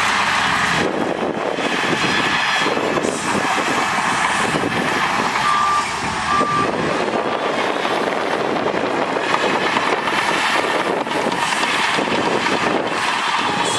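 Heavy earthmoving machinery running steadily, with a reversing alarm beeping twice about halfway through.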